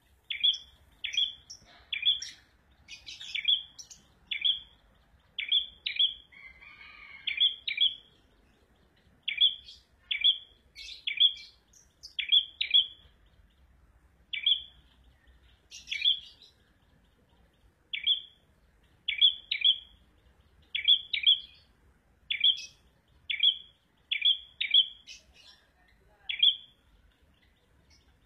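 A prenjak merah (prenjak abang) songbird calling: short, sharp chirps, often in quick pairs, repeated again and again with pauses of a second or two between them.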